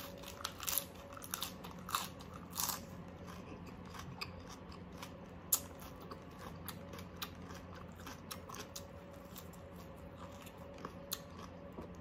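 Close-up crunchy chewing of a mouthful of crispy oven-baked pork wrapped in lettuce. The crunches come thick in the first few seconds, then grow sparser as the chewing goes on.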